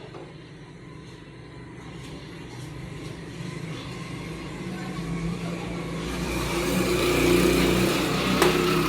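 A motor vehicle engine running and growing steadily louder over several seconds, with a single sharp click near the end.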